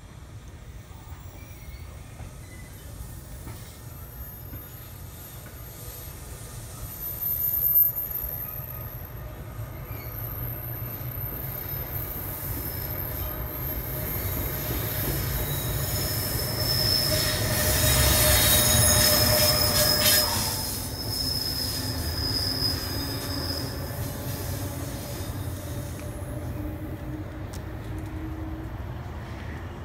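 NJ Transit electric commuter train passing, loudest about two-thirds of the way through, with thin high squealing tones from the wheels on the rails. A slowly rising hum follows as it moves off, and there is one sharp knock about eight seconds in.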